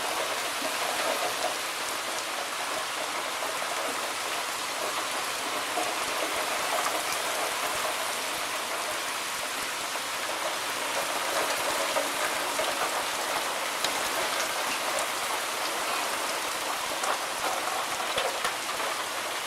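Rain falling steadily, an even hiss with scattered drop ticks.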